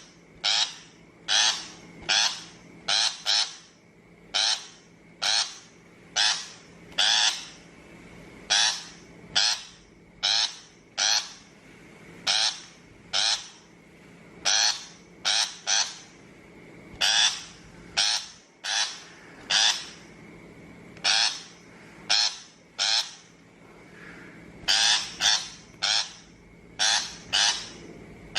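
Shrike giving short, harsh, grating calls, singly or in quick pairs, about one a second.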